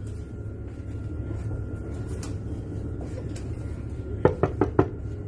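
Five quick, sharp knocks on a cabin door about four seconds in, over a steady low hum.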